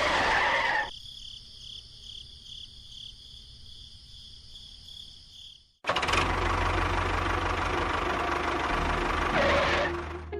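Engine-like running noise with a low rumble, which drops away about a second in to a quiet stretch with faint pulsing high tones, then cuts back in abruptly about six seconds in and runs on.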